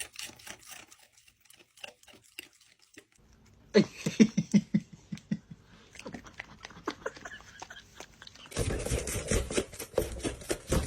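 A dog chewing and crunching food, with many quick wet clicks and smacks. There is a run of short low-pitched sounds about four seconds in, and the chewing gets louder near the end.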